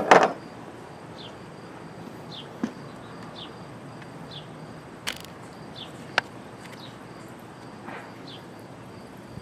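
A short clatter at the start, then a few sharp single clicks and knocks from hand work fitting clamp-mounted lights to a truck bed. Under them is a steady outdoor background with a short, high, falling chirp that repeats about once a second.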